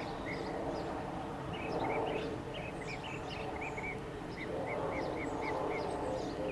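A bird calling in two quick runs of short, high chirps, several notes a second, the first run about two seconds in and the second a little after the middle, over a steady outdoor background hum.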